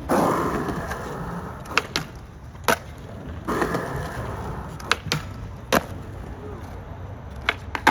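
Skateboard wheels rolling on concrete, twice swelling and fading, with about eight sharp clacks of boards striking the ground.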